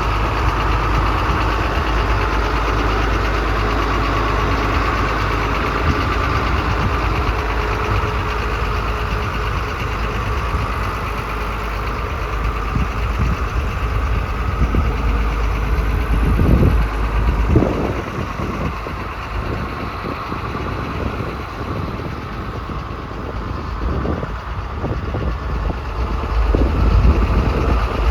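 Caterpillar 3116 inline-six diesel engine of a 1992 Chevrolet Kodiak truck idling steadily, with a few irregular low rumbles in the second half.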